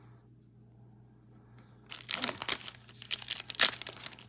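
A foil trading-card pack wrapper being torn open and crinkled: a quick run of rips and crackles starting about two seconds in, over a faint steady low hum.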